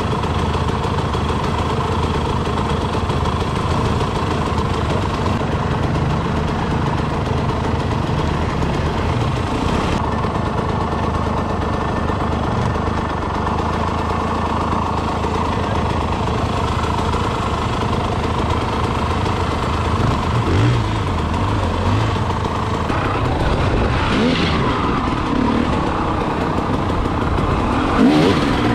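Enduro motorcycle engine running steadily under way, its pitch shifting a little with the throttle and briefly rising twice in the last third.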